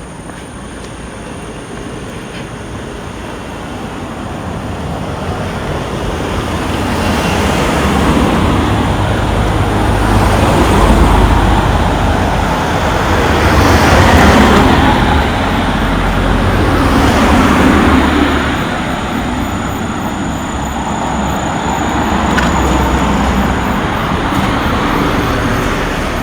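Road traffic going past close by: several vehicles pass one after another, each a rushing swell with a deep rumble underneath, the loudest about halfway through.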